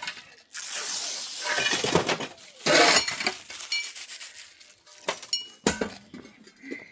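Hard objects being handled: irregular clattering and clinking with a few sharp knocks.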